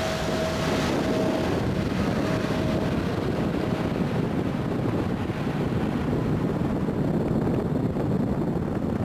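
Boeing 777-300ER's GE90 jet engines at takeoff power, a deep steady rumble whose higher hiss fades as the aircraft moves away.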